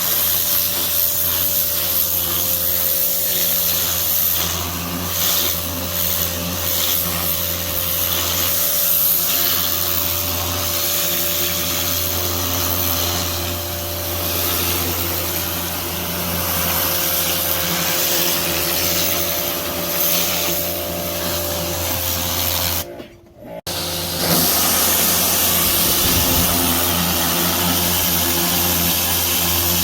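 Pressure washer running steadily, a motor hum under the hiss of the water spray. It cuts out completely for about half a second a little after three-quarters of the way through, then carries on as before.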